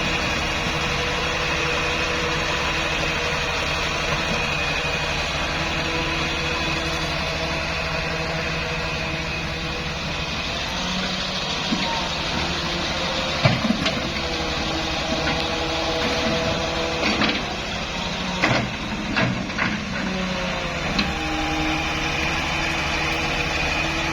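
Excavator engine and hydraulics running steadily with a constant whine. Several sharp knocks and clanks come in the second half.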